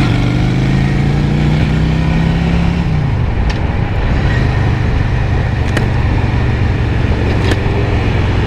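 Honda Shadow 750's V-twin engine running under way, with wind rushing over a helmet-mounted microphone. The engine note climbs slightly, drops about three seconds in, then holds steady.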